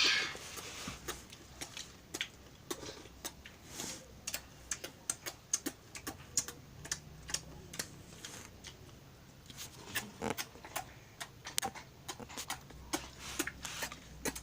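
Eating sounds: chewing, heard as many short, sharp, irregular clicks and crunches.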